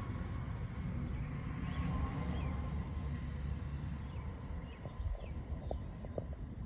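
Gusty wind rumbling on the microphone ahead of a severe thunderstorm, with birds chirping in short calls.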